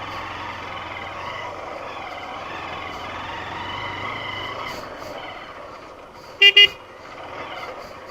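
Honda Unicorn motorcycle riding along with steady engine and road noise. About six and a half seconds in, a horn gives two quick, loud beeps.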